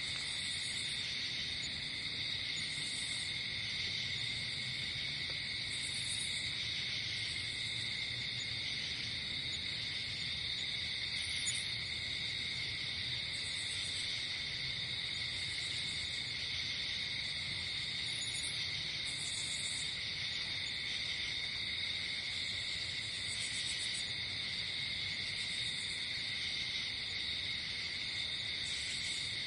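Night chorus of crickets and other insects: a steady, continuous trilling, with shorter high-pitched chirps coming every second or two over it.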